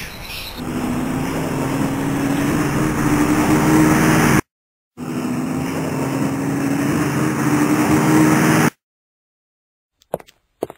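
Car engine running as a vehicle drives, with a steady hum that climbs a little in pitch. It plays twice, each time for about four seconds and cut off abruptly, with half a second of silence between. Near the end come a few sharp knocks.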